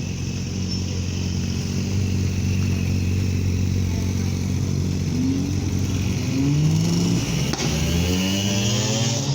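A car engine running steadily, then revved or accelerated about five seconds in, its pitch rising several times in quick succession.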